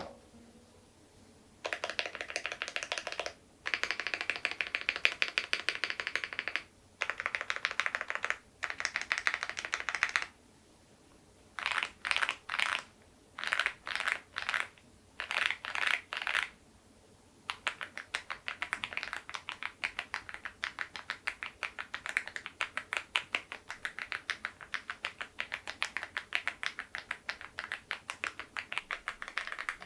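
Fast typing on a mechanical keyboard fitted with LEOBOG grey wood switches and KeyTok very-low-profile Godzilla keycaps. It comes in several runs of a second or more, then a string of short bursts, then continuous typing from about halfway on.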